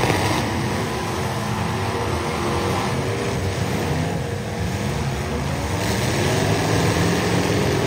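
Several demolition derby cars' engines running and revving together, their pitches rising and falling against one another as the cars push and manoeuvre.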